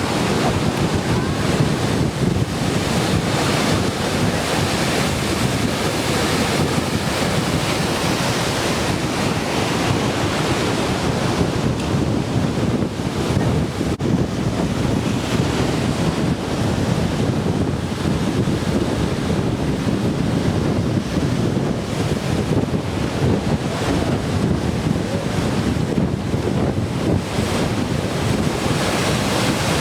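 Ocean surf breaking continuously on a beach, heavy with typhoon swell, with wind buffeting the microphone.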